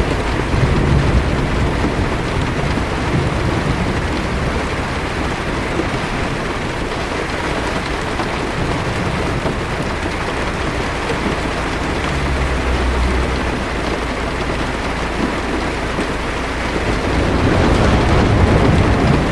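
Heavy rain falling steadily on a car's roof and windshield, heard from inside the car, with low rolling thunder underneath that swells near the end.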